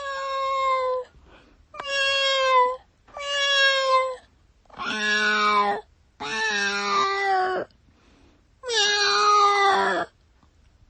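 A cat meowing repeatedly: six long meows of about a second each with short pauses between, each holding its pitch and dropping slightly at the end.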